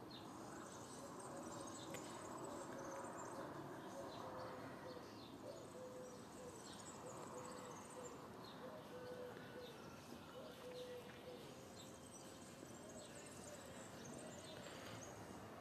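Faint outdoor evening ambience with scattered short, high bird chirps over a soft steady background hiss.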